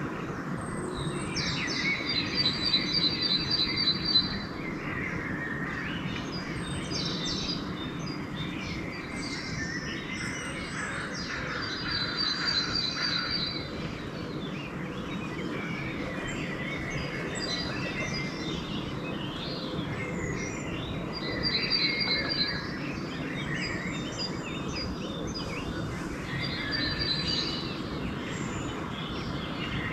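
Dawn chorus of several songbirds calling and singing over one another, with one bird repeating a quick, even run of high notes every several seconds. A steady low background rumble runs underneath.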